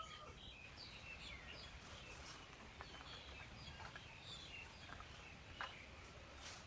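Faint, scattered bird chirps over a quiet rural background, with a few light clicks, the clearest about five and a half seconds in.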